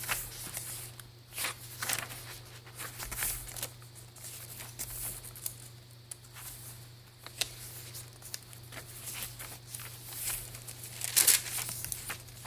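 Paper pages of a handmade junk journal being turned and handled, with irregular rustling and crinkling and a louder paper rustle about eleven seconds in, over a steady low electrical hum.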